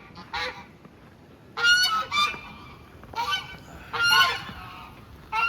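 A couple of geese honking, loud calls in several short bouts, the loudest about two and four seconds in.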